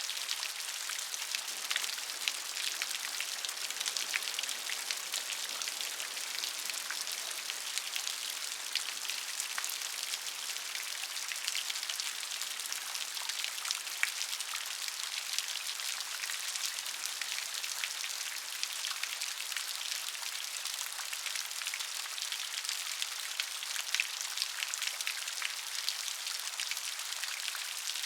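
Steady rain, with a dense patter of individual raindrops.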